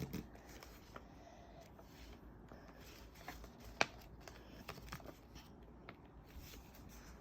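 A sheet of paper being handled and folded: faint rustling and creasing, with a few short sharp clicks, the clearest a little under four seconds in.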